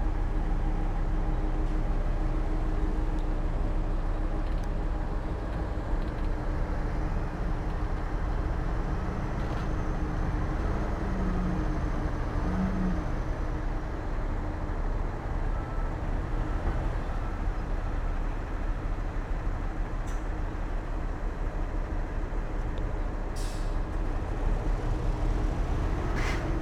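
Heavy diesel earthmoving machinery running steadily, an engine drone with a constant low note. There are a couple of brief high hisses near the end.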